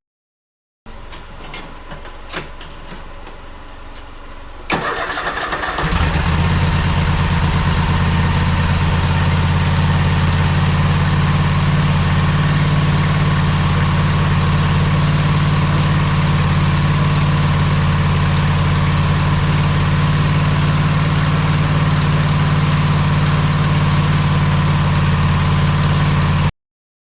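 Craftsman Pro Series lawn tractor engine cranked by its electric starter for about a second, catching about six seconds in and then running steadily. A few light clicks and knocks come before the cranking.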